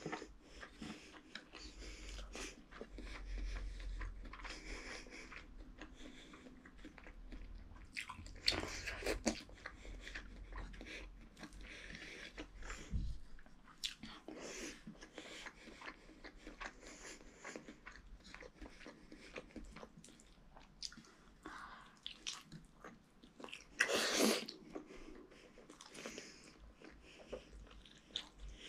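Close-up mouth sounds of a person eating rice and fried potato with his fingers: irregular wet chewing and lip smacks, with a couple of louder bites, the loudest near the end.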